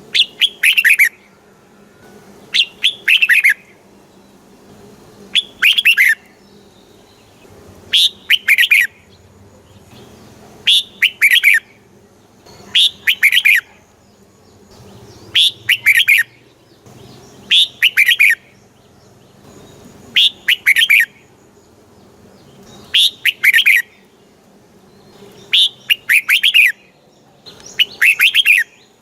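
Red-whiskered bulbul singing: a short, loud phrase of quick notes, repeated about every two and a half seconds, around a dozen times.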